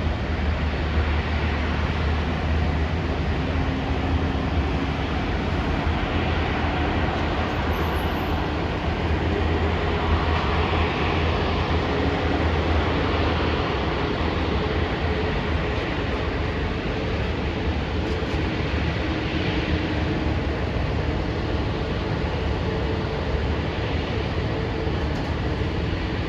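Steady low rumble of a vehicle in motion, even throughout, with faint steady tones above it.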